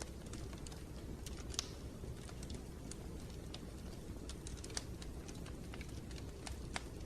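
Wood fire crackling in a fireplace: irregular sharp pops and snaps over a low steady rumble, with a louder snap about a second and a half in.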